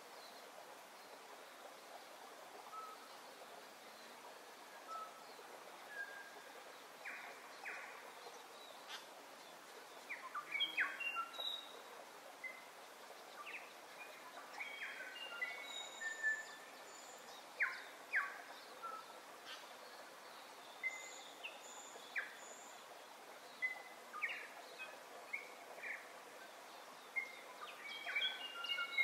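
Birds chirping and calling: many short whistled notes and chirps over a steady background hiss, growing busier about ten seconds in.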